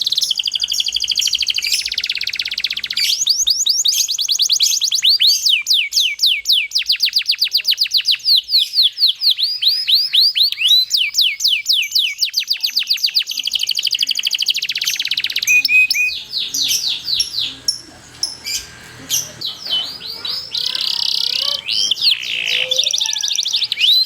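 Domestic canary singing long rolling trills: long runs of rapid, repeated sweeping notes, high-pitched, with a brief quieter patch of scattered notes a little past the middle.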